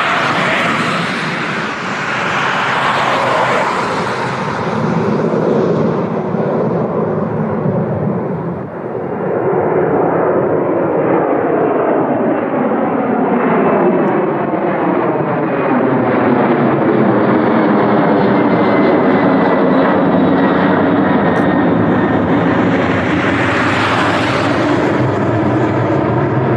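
Jet airliner's engines passing close by: a loud, steady rush with a faint whine that slowly falls in pitch.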